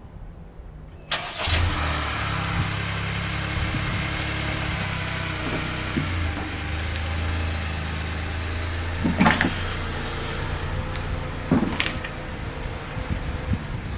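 A car engine starts about a second in and then idles steadily. A few short knocks come over the idle later on.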